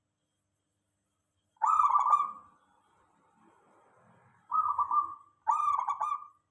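Local zebra dove (perkutut) cooing in three phrases of quick, rippling coos. The first comes about one and a half seconds in; the other two follow close together near the end.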